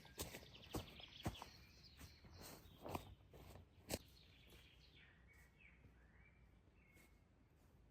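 Faint outdoor forest sound: a few scattered sharp knocks and clicks in the first half, the last and loudest about four seconds in, with a small bird giving short high chirps and a brief trill.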